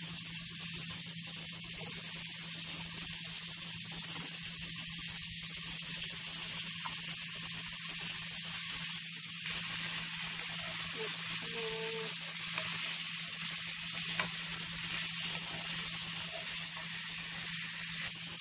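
Chicken pieces sizzling in hot oil with onion, garlic and ginger in a frying pan, a steady hiss as they fry, while a wooden spoon stirs them; a low steady hum runs underneath and there is one light knock about fourteen seconds in.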